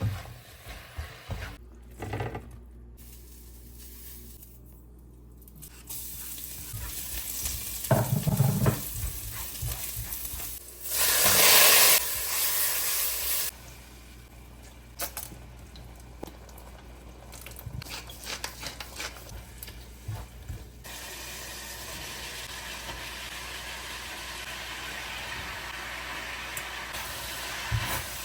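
Home cooking: food sizzling and frying in a pan, with utensils clinking and stirring. A loud rush of noise lasts about two seconds around eleven seconds in, and a steady sizzle fills the last third.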